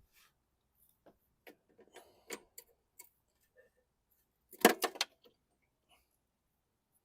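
Scattered light metallic clicks and taps from hand tools and mower parts being handled, with a louder cluster of sharp clanks about four and a half seconds in.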